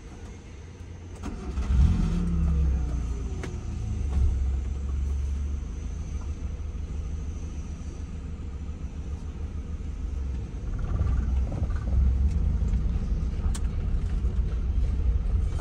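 A car engine picks up and revs about two seconds in, then runs steadily as the car is driven, with a low rumble throughout.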